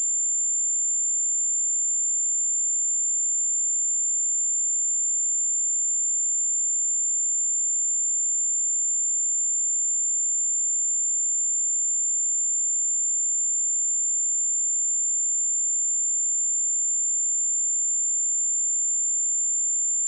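A steady, unbroken pure sine-wave test tone at 7234 Hz, a single high-pitched whistle-like tone with no change in pitch or loudness, used for testing speakers and headphones.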